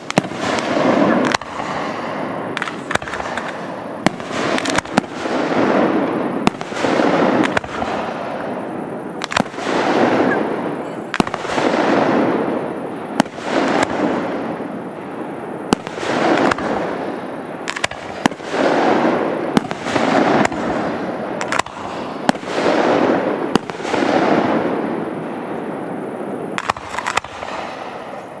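Aerial fireworks firing and bursting one after another: a rushing swell about every two seconds, with many sharp bangs and cracks scattered throughout.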